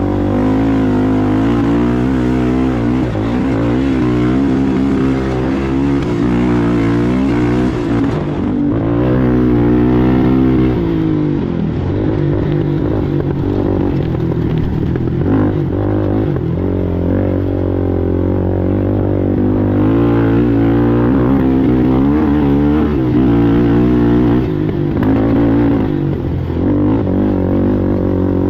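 Racing ATV engine running hard, its revs rising and falling again and again as the throttle is worked over rough ground.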